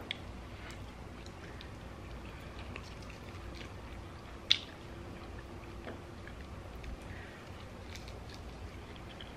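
Close-miked chewing and mouth sounds of someone eating a chicken wing, with scattered small clicks and smacks and one sharp click about halfway through.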